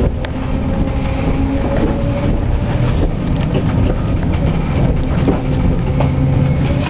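Tram running along its track: a steady low rumble of wheels on rail with an even motor hum and a few sharp clicks.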